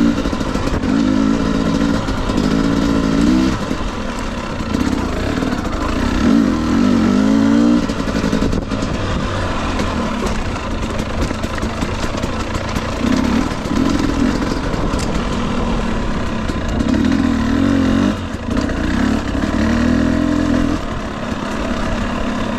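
Husqvarna TE250i's 250 cc two-stroke single-cylinder engine on a dirt bike being ridden, revving up and down in short bursts of throttle with a quieter stretch of coasting in the middle.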